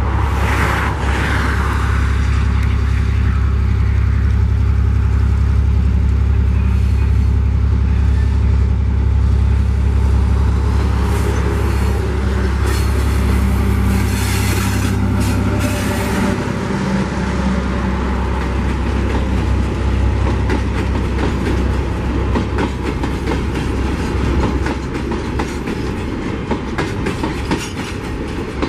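ALCO RSD-16 diesel-electric locomotive with its V12 engine running loud as it goes by, followed from a bit past halfway by a train of empty ore hopper wagons rolling past, their wheels clicking rapidly over the rail joints.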